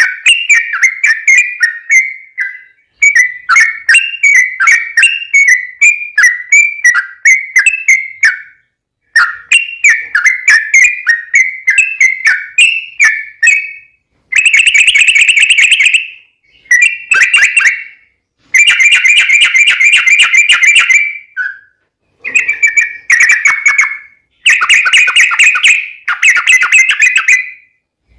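Yellow-vented bulbul (trucukan) singing loudly: bubbly, whistled chirping in phrases of a few seconds with short pauses between them. About halfway through, the phrases turn into long, fast, rolling trills.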